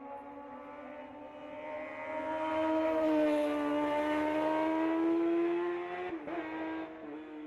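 A race car's engine at high revs climbing through a hillclimb stage, growing louder as it nears. The note rises steadily, then breaks briefly about six seconds in for a gear change and carries on at a lower pitch.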